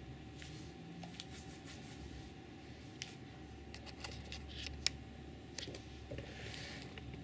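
Faint handling noises: scattered small clicks and taps over a low room hum, with one sharper click about five seconds in and a brief rustle near the end.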